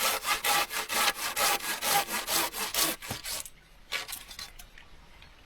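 Hand saw cutting through wood in quick, even back-and-forth strokes, about four or five a second. The strokes stop about three and a half seconds in, followed by a few weaker strokes.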